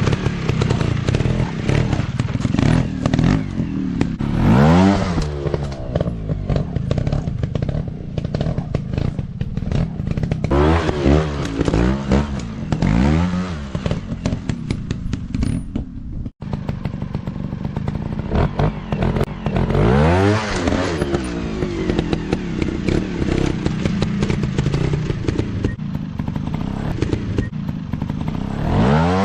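Dirt bike engine revving hard, its pitch rising and falling again and again as it is throttled up and down, with clattering and knocking in between.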